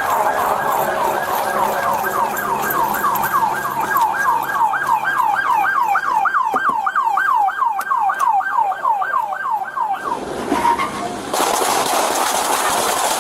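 Police car siren in rapid yelp mode, its pitch sweeping up and down about three times a second. It cuts off suddenly about ten seconds in, and a steady rushing noise follows.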